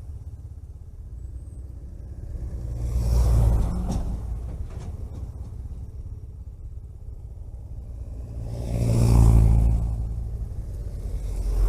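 Steady low road and engine rumble from a vehicle driving along a road, with two louder whooshes that swell and fade, about three seconds in and about nine seconds in, as other vehicles pass; a third begins near the end.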